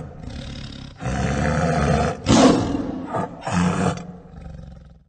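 Tiger roaring: a series of deep roars and growls, the loudest about two and a half seconds in.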